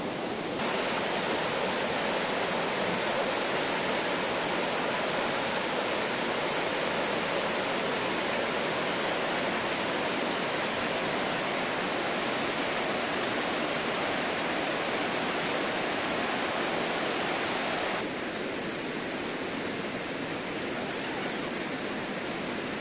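Mountain stream water rushing steadily over rocks. About three quarters of the way through it becomes slightly quieter and duller.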